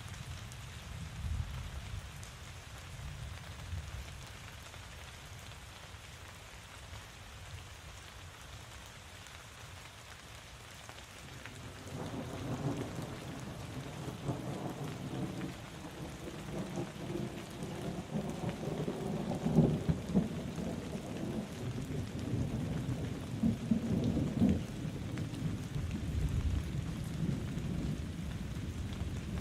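Steady rain falling, with a roll of thunder rumbling in about halfway through. The thunder swells with a couple of louder peaks and is still rolling at the end.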